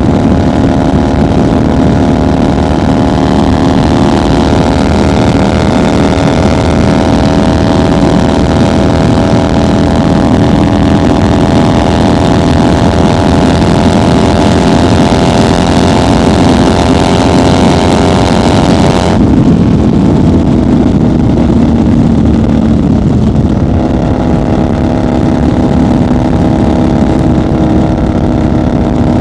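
1990 Harley-Davidson FXR's air-cooled V-twin engine running at highway speed, with steady wind and road rush. Its note climbs slowly, then about two-thirds of the way through it drops suddenly to a lower, duller pitch.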